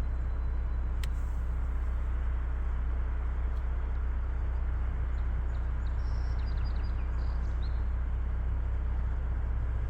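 Steady low engine rumble, like a vehicle idling. A few short, faint bird chirps come about six to seven and a half seconds in.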